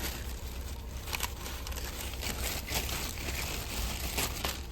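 Packaging of new engine parts crinkling and rustling as it is handled and opened, with irregular crackles throughout.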